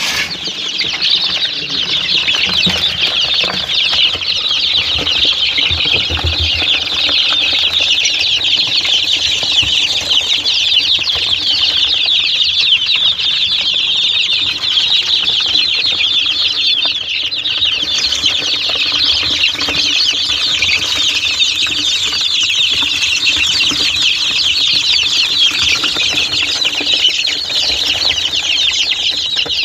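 A flock of fancy chickens of Polish and heavy breeds calling all at once in a dense, continuous, high-pitched peeping chatter.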